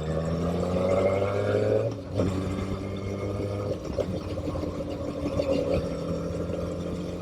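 Motorcycle engine rising in pitch as it accelerates for about two seconds, a brief break as it shifts up a gear, then running at a steady speed.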